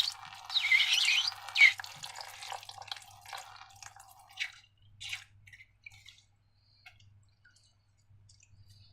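Thick wet slime pouring and dripping, loudest in the first two seconds, then tapering off into a few separate sticky drips.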